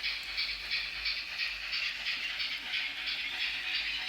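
Sound decoder of a Fleischmann N-gauge DR 44 steam locomotive model playing steam chuffs at about three beats a second through the model's small speaker, with a low rumble from the running model underneath.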